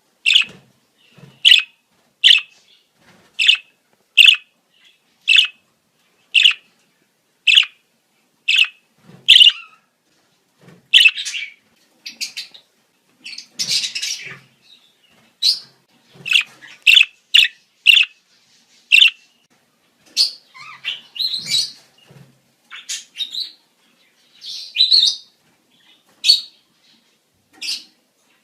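Budgerigars' breeding-season calls: short sharp chirps repeated about once a second, giving way after about ten seconds to quicker, more varied chirping.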